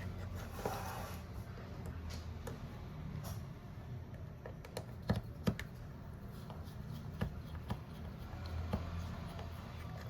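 Scattered small clicks and taps of hand tools working on a smartphone, over a steady low hum; two sharper clicks come about five seconds in.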